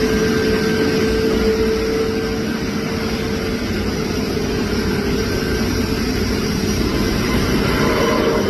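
Light propeller airplane's piston engine running at power, a loud steady drone whose pitch sags slightly.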